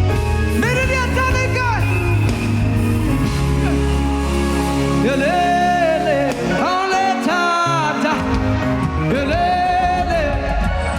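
Gospel worship music: a lead singer holding long, wavering sung phrases over a band. The bass drops out for about a second and a half past the middle, then comes back in.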